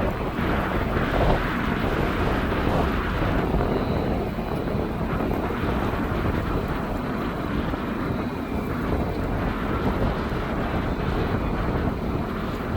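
Airbus A319 jet engines running, a steady, loud rumble, with gusty wind buffeting the microphone and a faint high whine about four seconds in.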